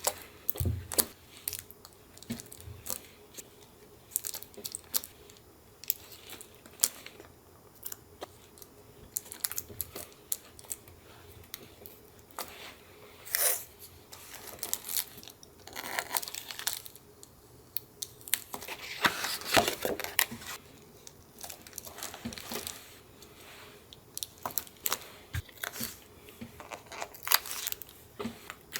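Paper being torn and rustled by hand during collage work, with short taps and clicks from materials being picked up and laid down, and a few longer tearing passes about halfway and two-thirds through.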